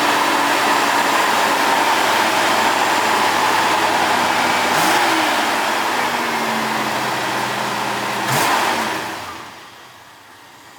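1969 Ford F-250's engine running on its rebuilt Autolite 2100 carburetor, with a brief rise and fall in pitch about five seconds in. Near the end the sound drops away to much quieter.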